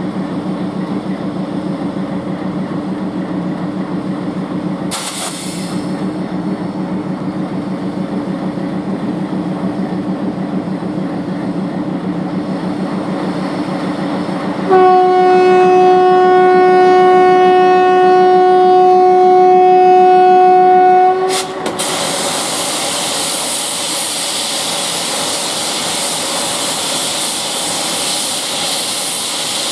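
ALCO WDM-3D diesel locomotive idling with a steady low hum and a short hiss about five seconds in. Its horn then sounds one long, steady blast of about six seconds. After the horn, compressed air releases in a loud, steady hiss.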